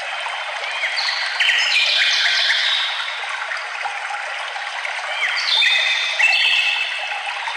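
Songbirds singing over the steady rush of running water. Two phrases of stepped, whistled notes, one about a second in and another about five seconds in.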